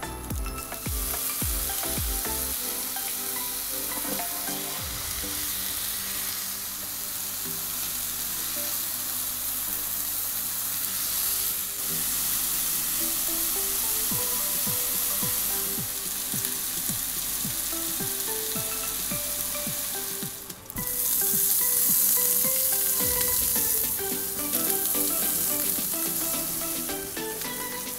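Pork steaks and then eggplant frying in hot oil on a ridged grill pan, a steady sizzle. It drops out briefly about two-thirds of the way through and comes back louder.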